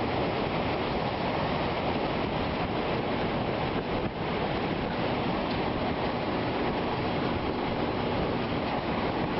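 Strong storm wind rushing steadily against the microphone.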